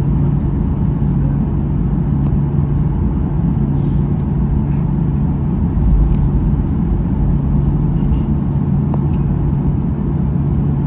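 Steady engine and airflow rumble heard inside the cabin of a Boeing 737-800 airliner, with a constant low hum and a brief low swell about six seconds in.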